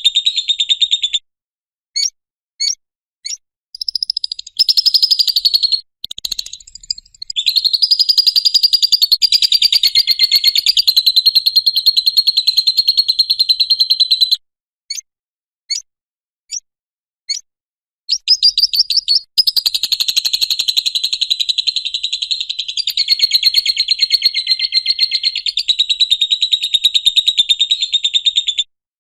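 Lovebird 'ngekek': long, rapid, chattering trills, high-pitched and loud. A few separate short chirps come between two long trills, each of which runs for several seconds without a break and then stops suddenly.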